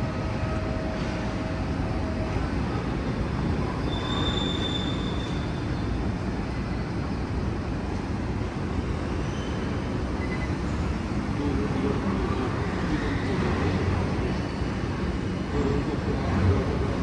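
Busy city street ambience: a steady din of traffic, with a brief high squeal about four seconds in.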